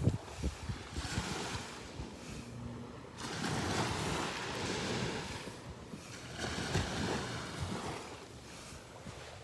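Sea waves breaking and washing up the shore. A bigger wave swells about three seconds in and lasts a couple of seconds, and a smaller one comes near seven seconds. Wind buffets the microphone with low rumbles.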